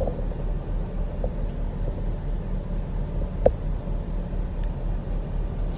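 Steady low rumble of a car idling, heard from inside the cabin, with one faint click about three and a half seconds in.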